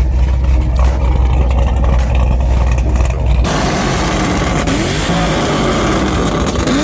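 Bass-heavy hip-hop music that cuts off suddenly about three and a half seconds in, giving way to sports car engines revving, their pitch rising and falling several times.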